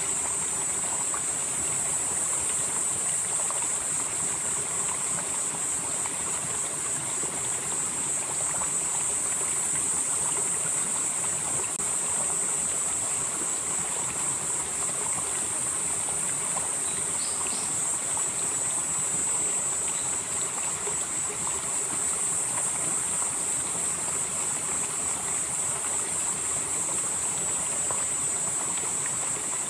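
Valley stream flowing steadily over rocks, an even rushing of water. Above it a steady high-pitched insect chorus that swells and fades slowly every several seconds.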